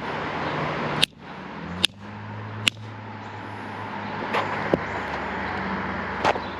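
Channel-lock pliers striking a soldered copper pipe fitting: three sharp metallic clanks with a brief ring, about a second apart, then a few lighter knocks.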